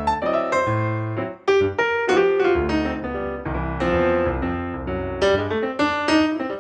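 Background piano music: a steady run of struck notes and chords over a bass line.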